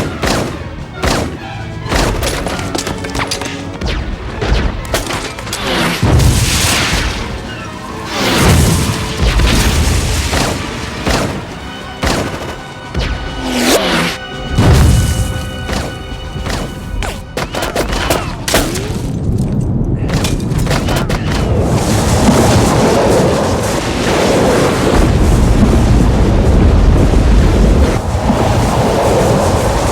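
Action film soundtrack: a run of booms, blasts and impacts over dramatic orchestral music. About two-thirds of the way in, these give way to a long, steady, dense rumble, the sound of the avalanche.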